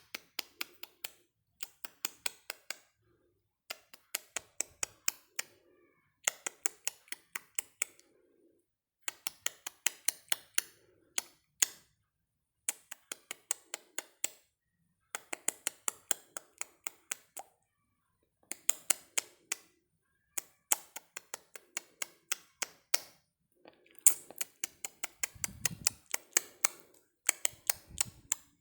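Rapid sharp clicks, several a second, in bursts of one to two seconds with short pauses between, like typing or tapping.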